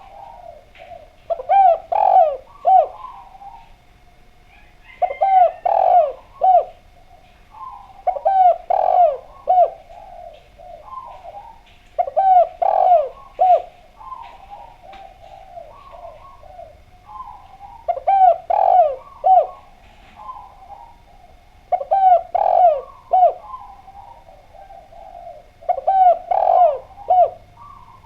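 Spotted dove (derkuku) cooing: a phrase of three or four low coos, repeated seven times, about once every four seconds.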